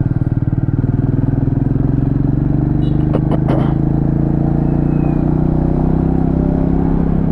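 Motorcycle engine running steadily in a low gear while riding, heavily loaded with luggage and a pillion, its note holding nearly even. A few short clicks come about three seconds in.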